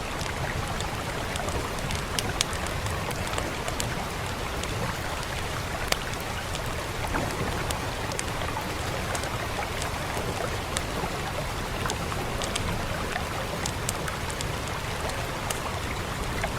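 Steady rain hiss with a wood fire crackling over it: many small, sharp pops at irregular intervals.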